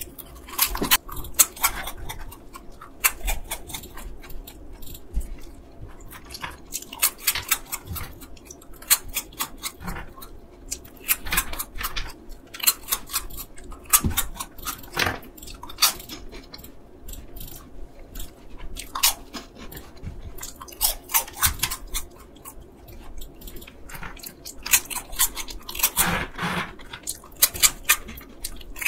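A person biting and chewing crunchy No Brand peanut caramel corn puffs, with crisp crackling crunches coming in repeated clusters as each mouthful is chewed.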